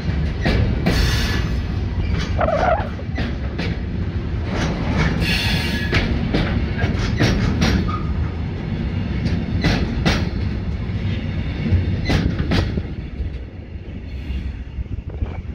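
Container wagons of a freight train rolling past: a steady rumble of wheels on rail with irregular clacks over the rail joints and a brief wheel squeal a couple of seconds in. The sound falls away near the end as the last wagon passes and the train draws off.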